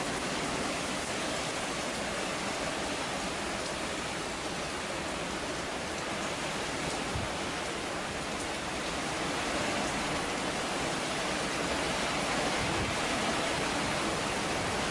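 Heavy hurricane rain pouring in a steady, dense hiss.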